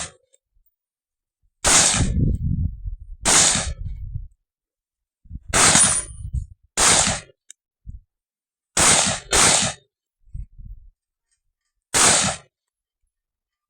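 Carbine shots fired singly at irregular intervals, seven in all, two of them in quick succession a little past the middle, as a competitor shoots a practical-shooting course of fire. A low rumble of handling or movement follows the first shot.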